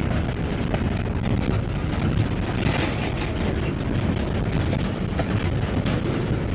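An intermodal freight train's container cars rolling past close by: a steady rumble and rattle of steel wheels on the rails.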